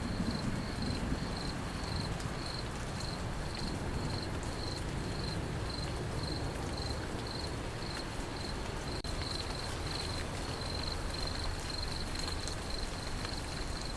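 Crickets chirping steadily at about two chirps a second over a steady hiss of rain, with the low rumble of thunder dying away at the start.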